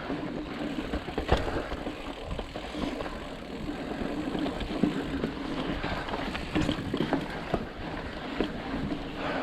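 Ibis Ripley mountain bike riding over rock: a steady rumble of tyres and wind on the microphone, broken by frequent sharp knocks and rattles from the bike.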